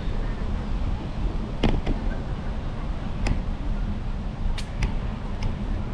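Steady low rumble of a bicycle rolling along with wind on the microphone, broken by a few sharp clicks or knocks, about five in all.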